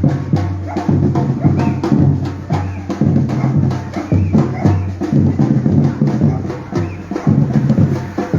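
Batucada percussion group drumming in the street: deep bass drums and sharper percussion hits in a steady, driving rhythm.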